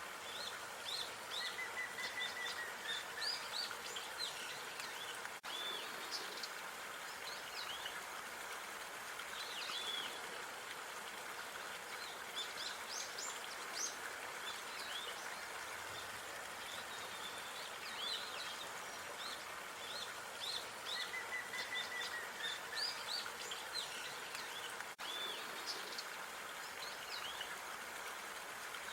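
Park ambience: small birds chirping and giving short whistled calls over a steady background hiss. The same stretch repeats about every 20 seconds, with a brief dropout at each loop seam.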